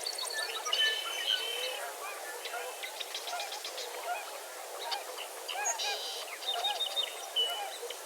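Many geese honking over a chorus of songbirds' chirps, whistles and short trills.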